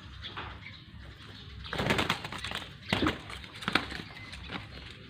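A group of birds calling and cooing, with a few louder, harsh bursts about two and three seconds in.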